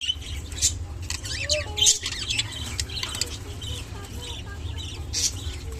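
Clearwing budgerigar chirping and chattering in quick warbling notes, with a few sharp clicks, over a steady low hum.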